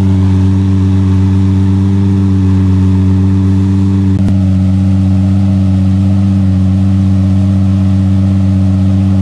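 Car engine running at a steady speed, a constant low drone with no change in pitch, with a single short click about four seconds in.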